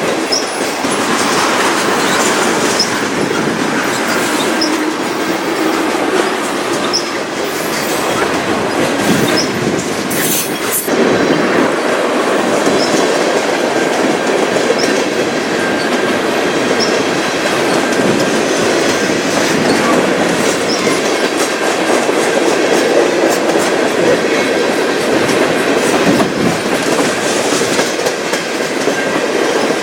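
Railway cars rolling past on the track: a steady wheel-on-rail noise with clickety-clack over the rail joints and brief, faint wheel squeals every couple of seconds. There is a sharp bang about ten seconds in.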